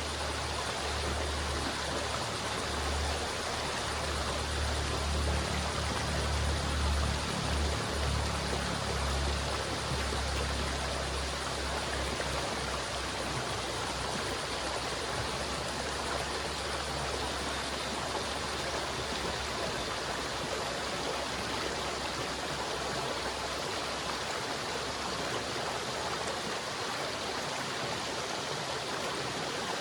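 River water flowing and rushing steadily. A deep low rumble underneath is strongest in the first part and fades away over the second half.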